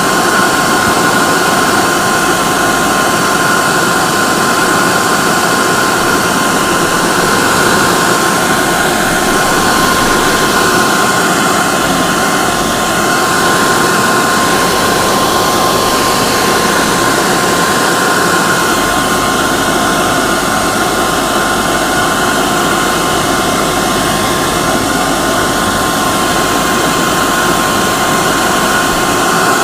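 Hair dryer running steadily: an even blowing rush of air with a steady whine from its motor.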